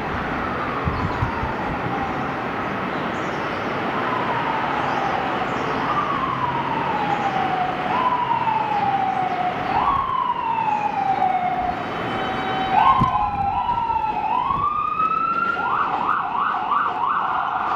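Emergency vehicle siren wailing in long falling sweeps, then switching to a fast yelp about fifteen seconds in.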